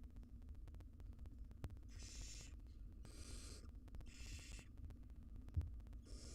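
Barn owl nestlings giving hissing, snore-like begging calls: four calls of about half a second each, roughly a second apart, typical of chicks begging for food. A single thump sounds about a second before the last call.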